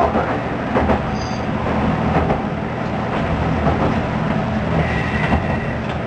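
Diesel railcar running along the line, heard from the driver's cab: a steady engine drone with knocks of the wheels over the rail joints. A brief faint squeal sounds about five seconds in.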